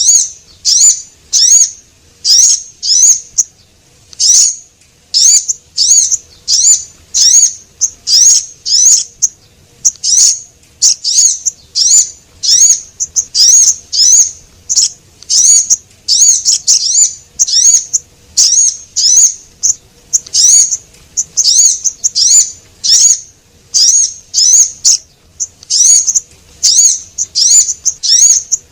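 Bird-trapping lure recording of a small songbird sold as a sogon, male and female calls: loud, high, quick chirps repeated about twice a second without a break, each a short looping note.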